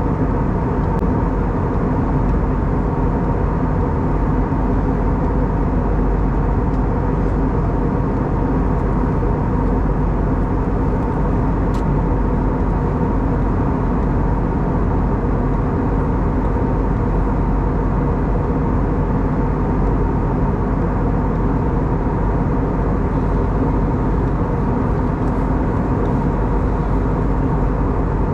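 Steady in-flight cabin noise of an Airbus A320neo with CFM LEAP-1A engines: an even rush of air and engine noise with a few steady humming tones.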